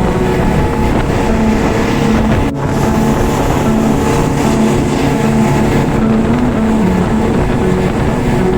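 Motorboat engine running steadily under way, with wind buffeting the microphone. There is a brief drop in the sound about two and a half seconds in.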